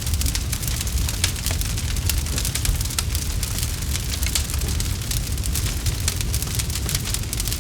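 Campfire burning steadily with frequent sharp crackles and pops over a low, constant rumble of the flames.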